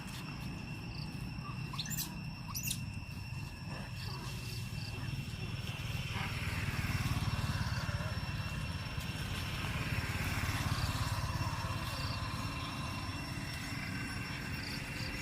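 Outdoor background: a steady low rumble like a motor, with a thin steady high whine. A few short bird chirps come about two to three seconds in, and a hiss swells and fades twice.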